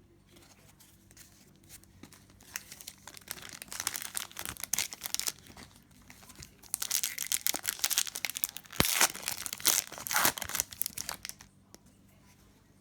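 Plastic foil wrapper of a sealed hockey trading-card pack being torn open and crinkled, in two spells of crackling, the second louder with a sharp snap partway through.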